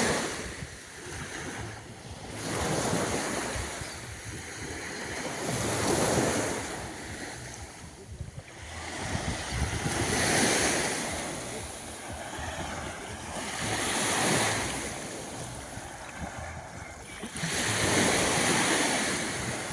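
Small waves breaking and washing onto a sandy beach, a swell of surf about every three to four seconds, with some wind on the microphone.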